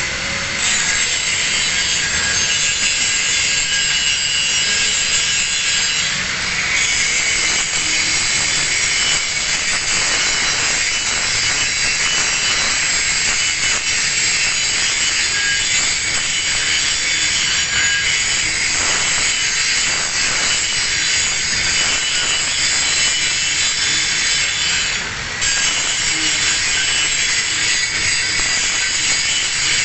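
Angle grinder grinding a single bevel on a steel plate, running steadily with a rough, high grinding noise that lets up briefly about 25 seconds in.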